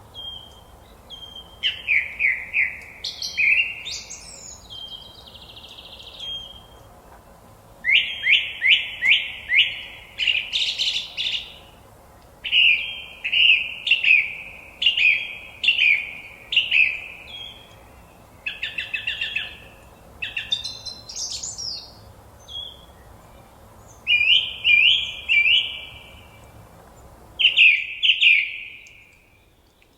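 Songbirds singing: short phrases of quick, repeated chirping notes, one after another every second or two, over a faint steady background hush that cuts out near the end.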